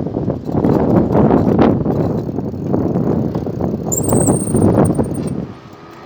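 Wind buffeting the microphone of a moving road bike, in uneven gusts that ease off near the end. A faint high whistle comes in about two-thirds through.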